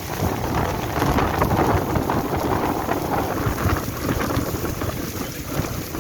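Heavy rain pouring down, a dense patter of drops hitting a surface, growing louder at the very start and heaviest about a second or two in.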